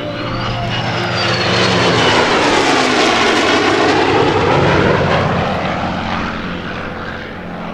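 Military jet flying past low and loud: a rushing roar that swells to its loudest a few seconds in, sweeping down in pitch as it passes, then fades.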